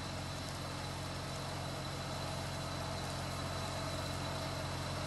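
Fire tanker truck's engine idling with a low, steady hum.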